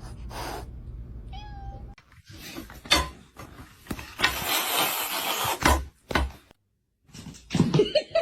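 A cat meows briefly, mixed with a few sharp knocks and a stretch of rustling noise.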